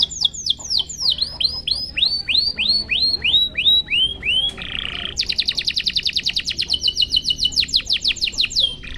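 Domestic canary singing: a run of repeated high, downward-sweeping whistled notes, slower for the first half, then a brief buzzy note and a fast, rapid trill.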